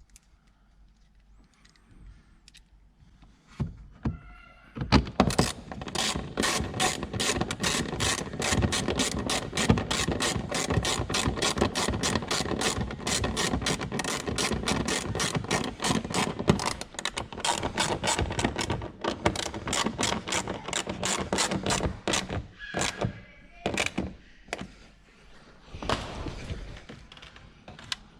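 Hand ratchet wrench clicking in a fast, even run as a fastener is turned. The clicking starts about five seconds in, stops a few seconds before the end, and a few separate clicks follow.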